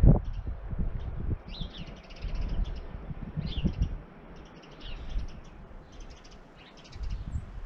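Small songbirds chirping, short falling chirps repeated about once a second with a few overlapping calls. Under them runs an uneven low rumble, with a sharp thump at the very start.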